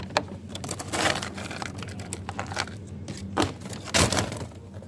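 Handling noise: a quick, uneven run of clicks, knocks and crinkling, as of small items and plastic packaging being handled, with the loudest knock about four seconds in.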